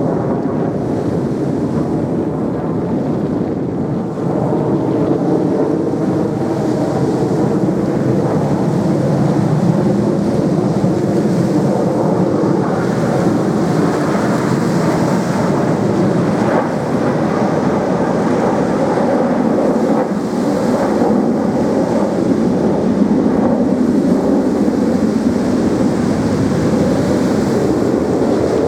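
Steady, loud jet-engine roar from a formation of T-50B jet trainers flying an aerobatic display, with a faint engine whine in it. The noise dips briefly about four seconds in and grows deeper in the last third.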